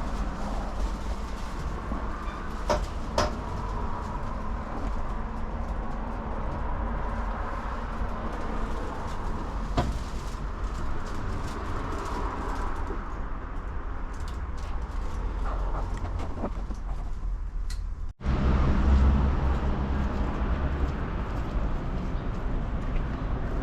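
Outdoor ambience: a steady low rumble with a few sharp clicks and birds calling. It drops out briefly about eighteen seconds in, and the rumble is louder after that.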